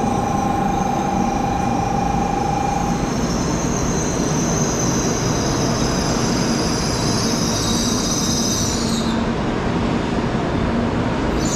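Sakura shinkansen (N700-series) rolling slowly along the platform, a steady rush of wheels on rail with a high-pitched whine from the wheels and brakes that stops about nine seconds in.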